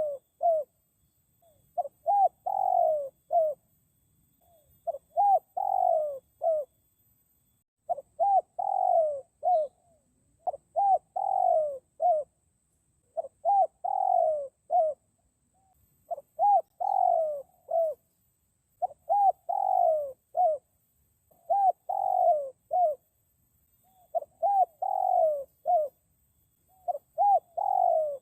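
Spotted dove (tekukur) cooing in a steady repeated phrase: two short coos, a longer falling coo and a short closing note, about every two and a half seconds, the call used to lure wild doves.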